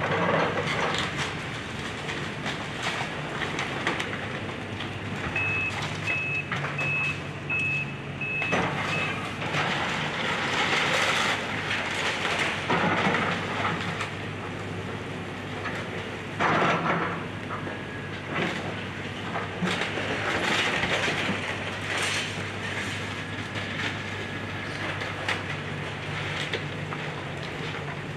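Diesel excavator engine running steadily while it crashes and scrapes through the debris of a house being demolished. A backup alarm beeps about six times, evenly spaced, a few seconds in.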